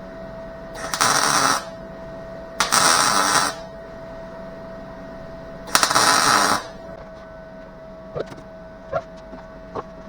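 Three short bursts of welding on car body sheet metal, each about a second long, crackling and hissing, with a steady tone underneath. A few faint clicks follow near the end.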